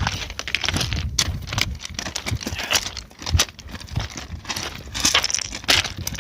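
Footsteps crunching on loose ground, with a dense run of irregular crackles and clicks over a low rumble.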